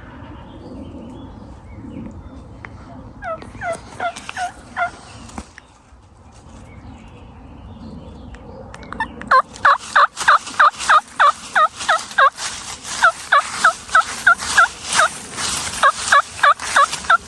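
Turkey yelping: a short run of about seven yelps about three seconds in, then from about nine seconds a long, loud, fast series of yelps, about three a second.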